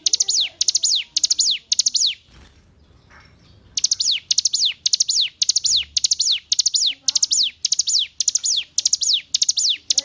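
Hill prinia (ciblek gunung) singing: loud, high-pitched, quick clusters of downward-sweeping notes repeated about two to three times a second. The song breaks off about two seconds in and resumes near the four-second mark.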